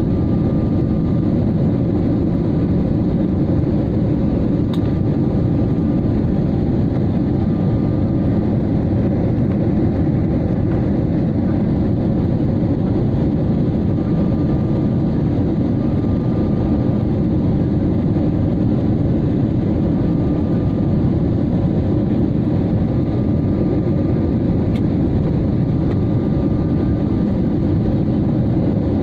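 Passenger aircraft in flight heard from inside the cabin: a steady, loud rumble of engines and airflow, with a faint steady whine above it.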